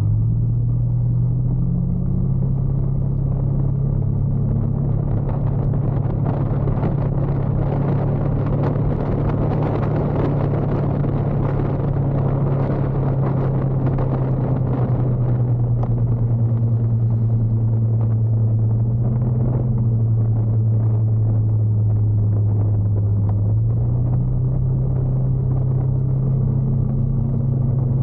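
Motorcycle engine running under way with a steady low hum; its note drops a little about two-thirds through and rises again a few seconds later. A rushing hiss grows louder through the middle and then eases.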